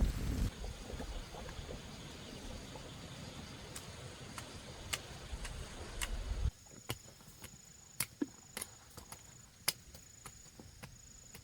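Low rumbling noise with a few sharp clicks, which drops away suddenly about six and a half seconds in. Then insects keep up a high, steady trill that breaks off now and then, with scattered sharp knocks.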